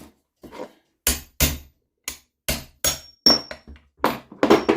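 About ten sharp hammer taps on metal, irregularly spaced, some leaving a brief high ring, while the clutch cap of an NSU Quickly two-speed moped engine is knocked loose.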